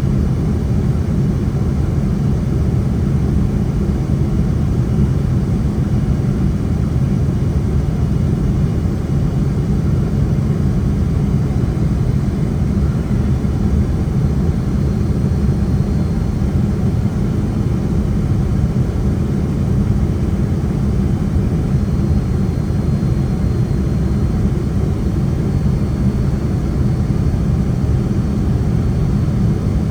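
Steady cabin noise of a Boeing 767-300 in flight, heard from inside the cabin: an even, deep rumble of jet engines and airflow with no change in level.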